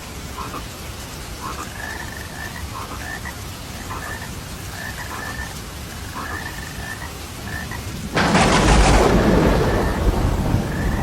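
Steady rain with frogs croaking short, repeated calls about once a second. About eight seconds in, a sudden loud thunderclap breaks in and rumbles for a few seconds.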